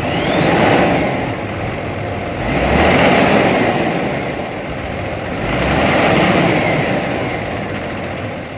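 Ford F750 dump truck's diesel engine being revved three times from idle, each rev swelling up and easing back down.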